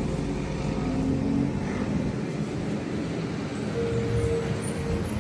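Road traffic: motor vehicle engines running, the nearest one fading away about two seconds in, leaving a steadier traffic hum.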